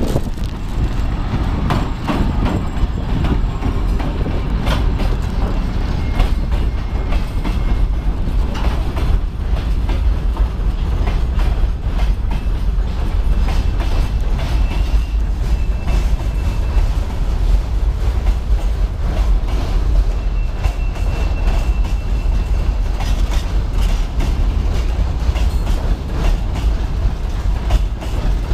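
Loaded freight train rolling past, wheels clattering over rail joints above a steady low rumble; the TEM2 shunting diesel locomotive's engine is heard in the first few seconds as it goes by. A faint high wheel squeal comes and goes twice in the second half.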